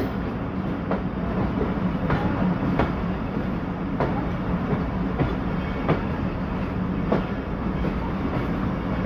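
Passenger train coach running on jointed track while pulling out of a station, heard from its open doorway: a steady rumble of wheels on rail with irregular sharp clacks as the wheels cross rail joints.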